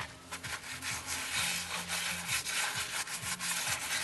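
A hand tool working wood, with repeated rasping strokes.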